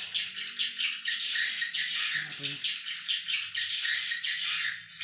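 Swiftlets calling: a dense, rapid chatter of high chirps and clicks, loudest in the middle.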